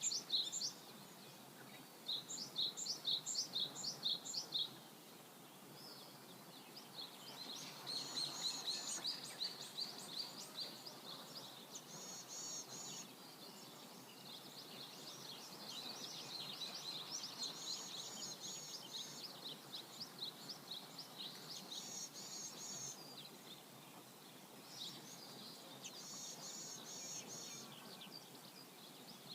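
Songbirds singing over a faint steady rush of flowing river water. The birds sing in quick runs of repeated high notes, with short trilled phrases recurring every few seconds.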